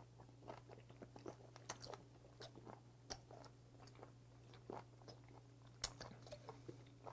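Faint wet chewing of raw webfoot octopus (jjukkumi), with small mouth clicks scattered irregularly.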